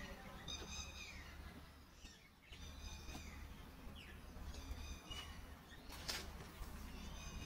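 A bird calling repeatedly: four short, high calls spread a second or two apart, over a low steady rumble. A brief rushing noise comes about six seconds in.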